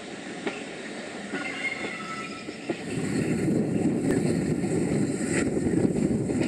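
Steam-hauled heritage passenger train running on jointed track, heard from a carriage window: a rumble with occasional clicks from the wheels. A faint high wheel squeal comes in for a second or so as the train takes a curve, and the running noise grows louder about three seconds in.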